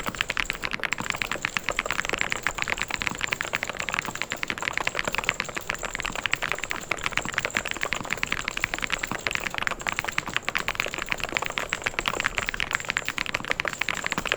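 Fast, continuous typing on a mechanical keyboard: a dense, even stream of key clicks with no pauses.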